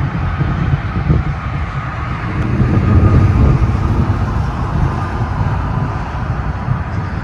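Steady low rumble of wind on the microphone and road traffic noise, swelling slightly about three seconds in.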